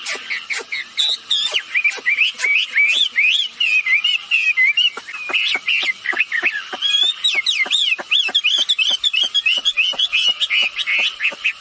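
Wambi bird calling without pause: a fast, unbroken run of short whistled chirps that glide up and down, with sharp clicking notes several times a second through the second half.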